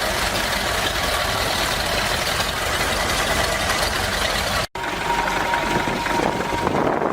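Vintage tractor engine running steadily. About two-thirds of the way through the sound cuts out for an instant and resumes with a different character, with a thin steady whine added.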